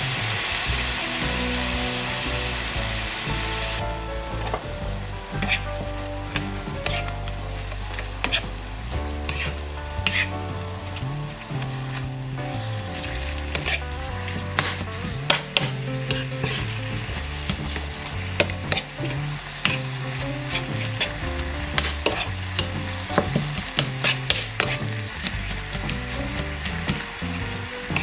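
Minced chicken stir-frying in a hot pan. It sizzles loudly for about the first four seconds, then more quietly, while a spatula clacks and scrapes against the pan again and again.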